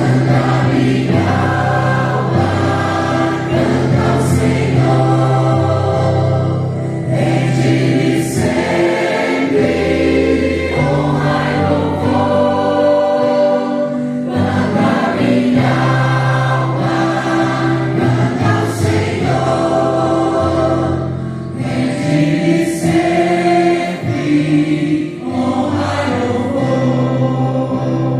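Church choir singing a gospel hymn in phrases, with sustained low accompaniment notes beneath.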